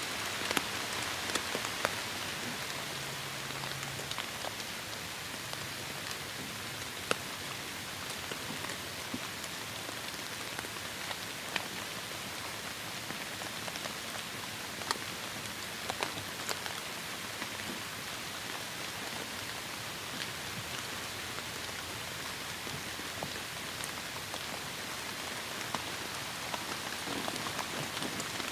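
Heavy rain falling steadily, a continuous hiss with scattered sharper drop impacts.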